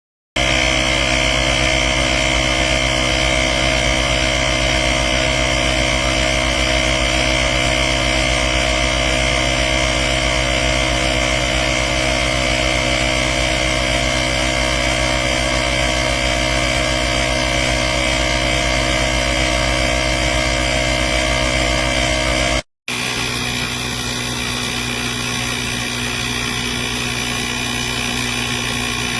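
Small cordless tire-inflator air compressor running steadily with a buzzing whine; it cuts out briefly about three-quarters of the way through and runs on at a slightly different pitch.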